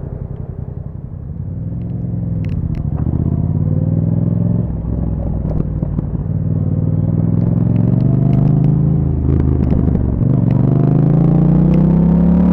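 2021 Yamaha MT-07's 689 cc parallel-twin breathing through an Akrapovic exhaust, accelerating under load: the engine note climbs, drops briefly at two gear changes, and keeps rising and getting louder.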